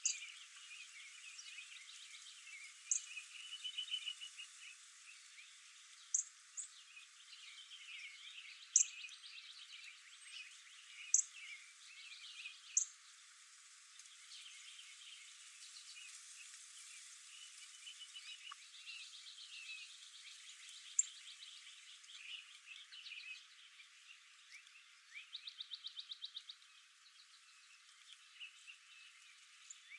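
A wildlife chorus of many small, high-pitched calls: overlapping chirps and trills, with a handful of sharp short pips and a fast pulsed trill near the end.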